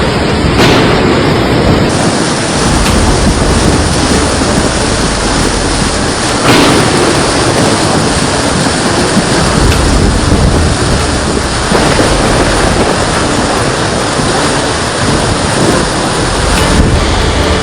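Heavy rainstorm: a loud, steady noise of rain and wind with a deep rumble, broken by a sharp sudden sound just under a second in and again about six and a half seconds in.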